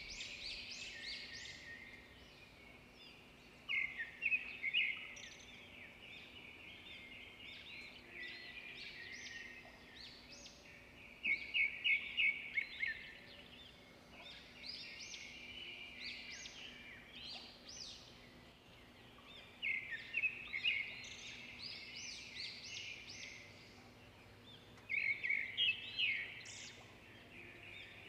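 Small birds chirping in quick bouts of rapid notes that come and go every several seconds, over a faint steady hum.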